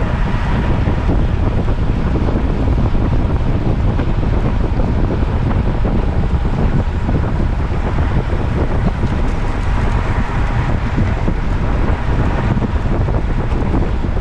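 Wind buffeting the microphone: a steady, loud rumble of noise.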